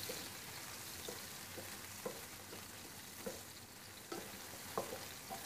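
Paneer cubes frying in a little hot oil in a non-stick pan: a faint steady sizzle, with soft, irregular knocks of a wooden spatula against the pan as the cubes are turned.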